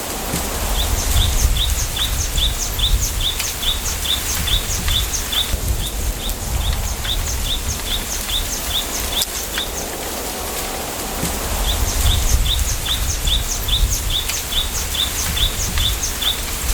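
A small bird calling a long series of short, high chirps, about three or four a second, with a brief break about five seconds in. Wind through the bamboo grove makes a steady rustle and low rumble underneath.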